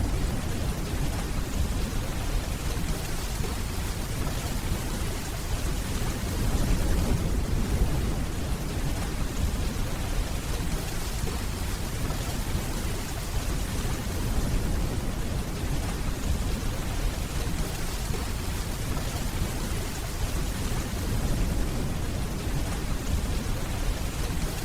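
Steady rainfall with low, distant thunder rumbling beneath it.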